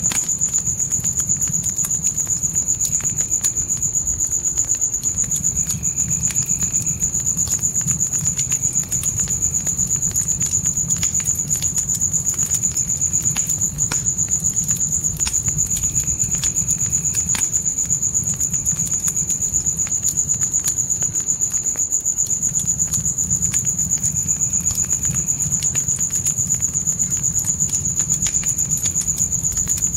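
Crickets chirping in one continuous high-pitched band, with a campfire crackling in scattered sharp pops over a low steady noise from the flames.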